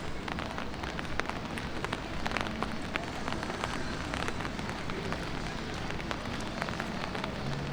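Light rain falling on the street, a steady hiss with many scattered drop ticks, over a low city background.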